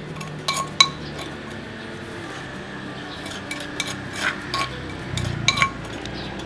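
Metal utensils clinking against dishes: a handful of sharp, irregular clinks with a short ringing tone.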